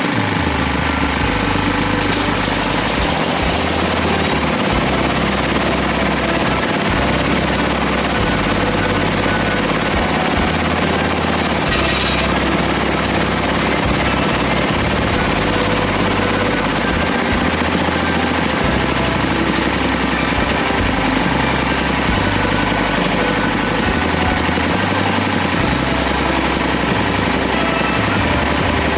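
Drilling rig's engine running steadily, loud, with a low rumble that rises and falls every second or two.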